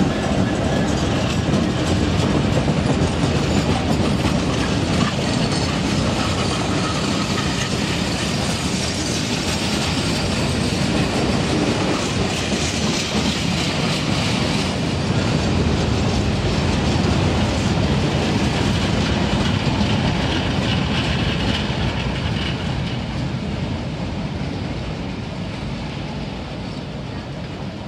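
Long freight train of open box wagons, hauled by a Class 66 diesel locomotive, rolling past: continuous rumble and clatter of wagon wheels over the rails and points, fading away over the last few seconds as the train draws off.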